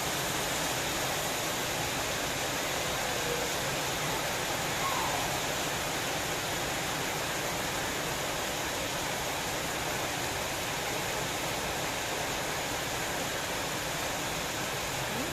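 Steady heavy rain, a dense, even hiss with no breaks.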